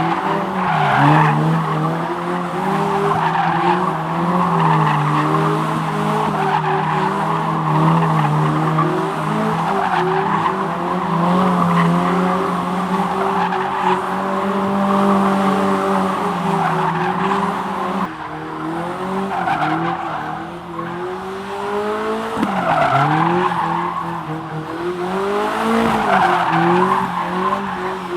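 Rally cars running hard on a circuit, several engines overlapping, their revs rising and falling through gear changes as they pass, with tyre squeal.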